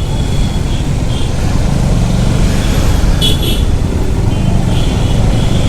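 Steady road noise heard from a moving motorcycle in city traffic: the engine and surrounding vehicles make a continuous low rumble.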